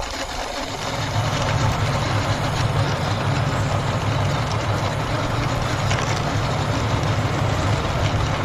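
Steady low rumble as a toy army tanker truck is driven along by hand, rising about a second in and holding at an even level.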